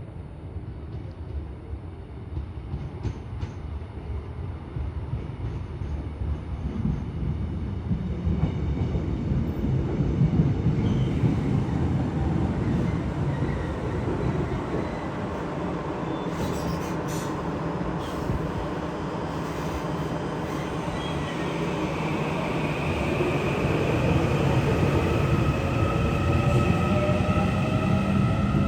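A train running on the rails, its low rumble growing louder over the first several seconds and then holding. In the last third, steady high-pitched whining tones join the rumble.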